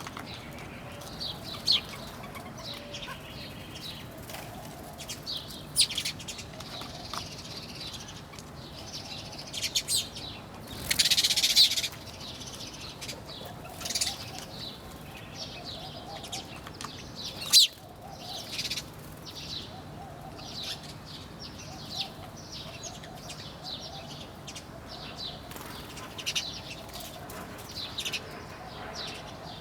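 Many small birds chirping and twittering in short, overlapping calls. There is a brief louder rush about eleven seconds in and a single sharp tap a few seconds later.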